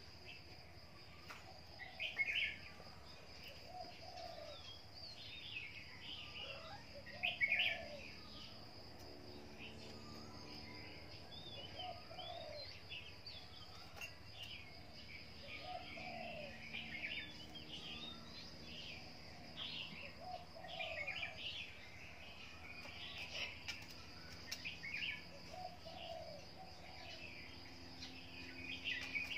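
Birds chirping, with short calls every second or two over a steady high-pitched drone.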